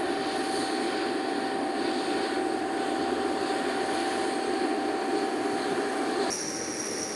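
Jet engines of an E-3A AWACS aircraft (four TF33 turbofans) running steadily, a roar with a held whine. About six seconds in the sound changes abruptly to a quieter roar with a higher whine.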